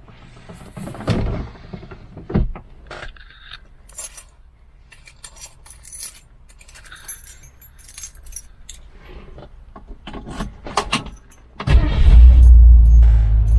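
Keys jangling and small clicks, then near the end a 1966 Ford Mustang's A-code 289 V8 fires up suddenly and settles into a loud, steady low rumble.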